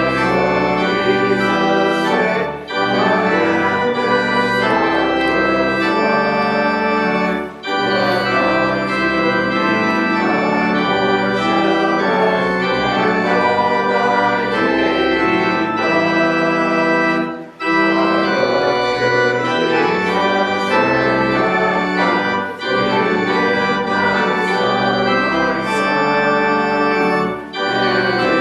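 Church organ playing a hymn in sustained full chords, with a brief break between phrases every few seconds.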